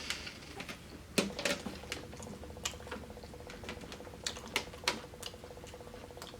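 Close-up eating sounds: irregular crisp crunches and clicks of someone chewing crunchy fried chicken. A faint steady buzz runs underneath from about a second in.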